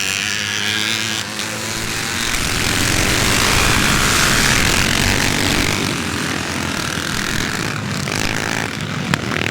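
A pack of classic motocross bikes running at full throttle together, a dense engine noise with rising and falling pitches. It grows louder to a peak about four seconds in, then eases off.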